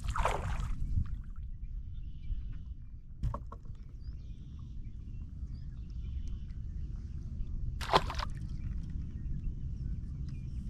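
Water sloshing against a small boat over a steady low rumble, with a few brief sharp knocks or splashes, the loudest about eight seconds in.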